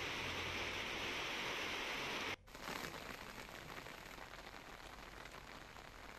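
Steady hiss of heavy rain and pouring water. About two and a half seconds in it cuts off abruptly and gives way to a fainter patter of rain that slowly fades.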